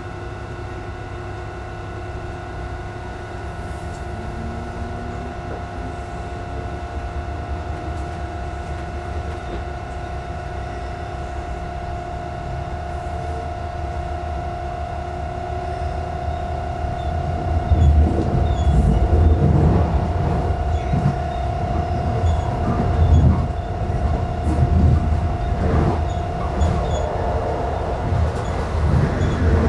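Electric commuter train pulling away and gathering speed, heard from inside the carriage. Its electric motors whine steadily, with one tone rising slowly in pitch, while the running noise grows louder. From a little past halfway, loud, irregular rumbling jolts from the wheels on the track come in.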